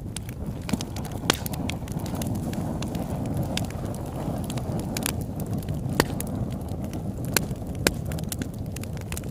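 Campfire burning: sharp crackles and pops scattered irregularly, a few of them louder, over a low steady rumble.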